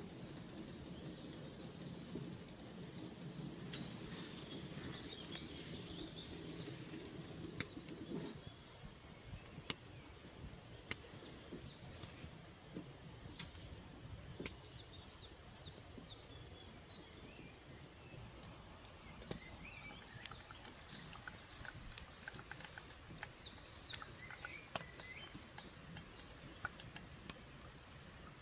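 Small songbirds chirping and twittering in short, high, repeated phrases. A low steady rumble stops abruptly about eight seconds in, and faint light clicks and taps come now and then.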